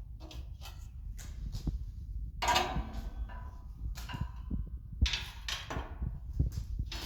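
Metal clinks, knocks and scrapes, several with a short metallic ring, as pieces of a metal fireplace tool set are handled.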